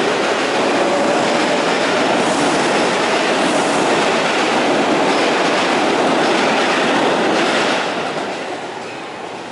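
Electric commuter train running on the rails close by: a loud, steady rumble of wheels on track that drops away about eight seconds in.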